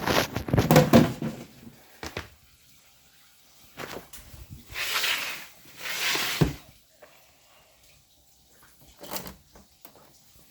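Knocks and clatter of a washing machine being handled, its lid or panels bumped, with two short hissing rushes of noise in the middle ending in a sharp knock, and one more brief clatter near the end.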